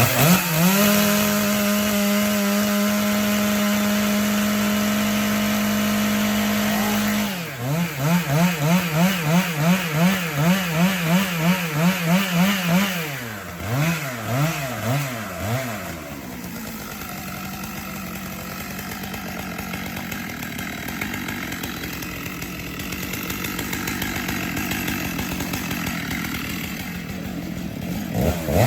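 Two-stroke chainsaw engine held at steady high revs for about seven seconds, then revved up and down about twice a second. From about 16 seconds in it drops to a quieter, lower running.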